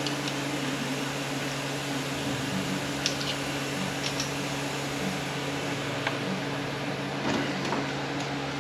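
Steady machine hum, like a shop fan or air conditioner, with a few light clicks of hand tools as the solenoids are worked off an automatic transmission's valve body.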